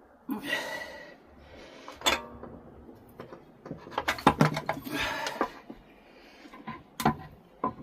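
Metal clinks, knocks and clatter of engine parts and tools being handled as a motorcycle engine case is taken apart, with a few short ringing metal strikes.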